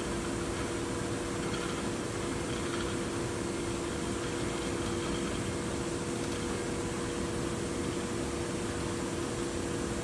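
Steady machinery hum: two constant tones over an even hiss.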